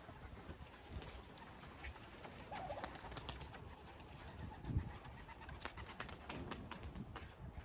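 Racing pigeons cooing faintly, with scattered light clicks and a single low thump a little before five seconds in.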